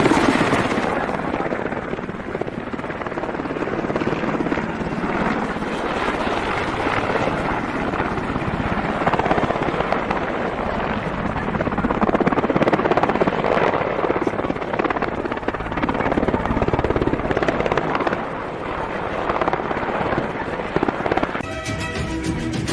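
Helicopter running loud and rough, a dense rumbling noise with crackle through it. Music comes in near the end.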